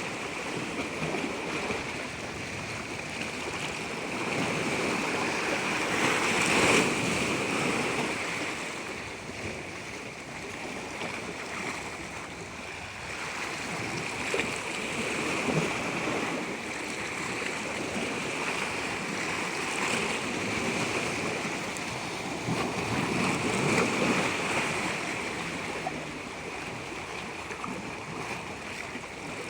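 Moving water rushing and washing continuously, swelling louder about three times.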